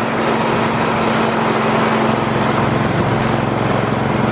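Small snowblower engine running steadily at a constant pitch.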